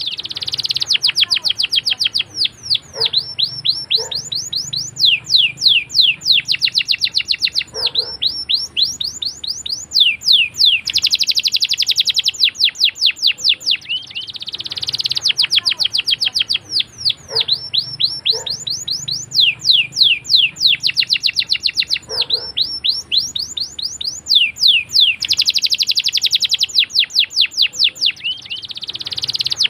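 Domestic canary singing a long rolling song: fast runs of sharp, sweeping chirps alternating with dense, buzzing rolls, with phrases following each other without a break.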